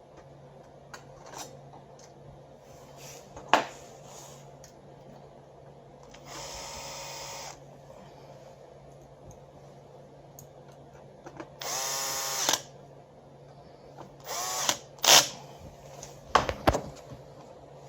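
Electric screwdriver running in two short bursts, the second louder with a rising whine as it spins up, among sharp clicks and knocks of parts being handled during fuser-unit disassembly.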